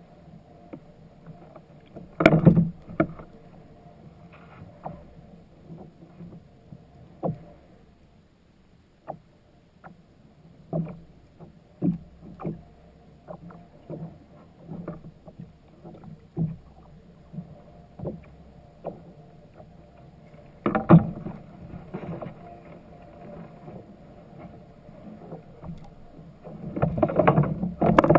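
Knocks and bumps on a kayak as gear is handled and moved against the hull, over a low wash of water. There are louder thumps about two seconds in and around twenty-one seconds, and a busier run of knocking near the end.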